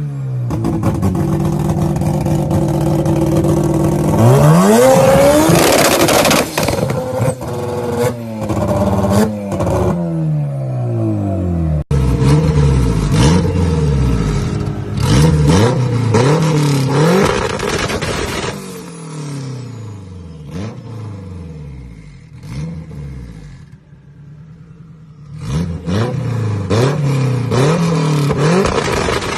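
Car engine revved again and again, with the exhaust popping and crackling as the revs fall off. There is a quieter lull with fewer pops before a last burst of revving and crackling near the end.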